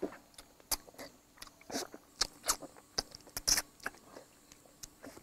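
People chewing meat close to the microphone, with irregular wet mouth clicks and smacks, a few each second.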